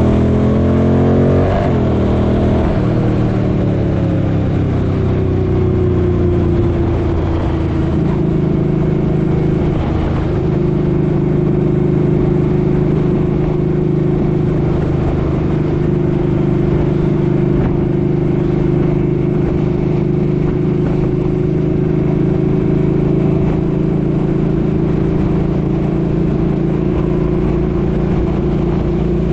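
Suzuki Boulevard M50's V-twin engine under way: its pitch rises for the first second or so, falls over the next few seconds, then holds steady from about eight seconds in as the bike cruises.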